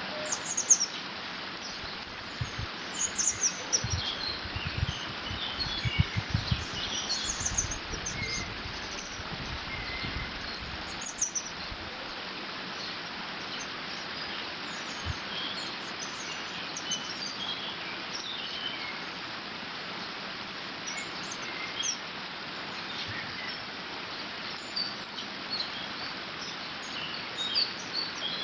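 Water pouring through a beaver dam as a steady rush, with small birds chirping and calling throughout. Low gusts of wind buffet the microphone between about two and ten seconds in.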